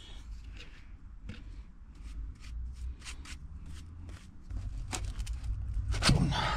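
Plastic drain pipe being shoved onto a lubricated fitting: many irregular small clicks and scrapes of plastic on plastic, with a low rumble building about two thirds of the way in and a short effortful vocal sound near the end.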